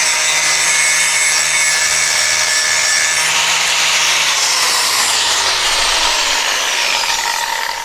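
Electric grinder grinding a fresh edge onto a steel mower blade, a loud steady rasping whine. Over the second half the motor's pitch falls and the sound eases off as the grinder winds down.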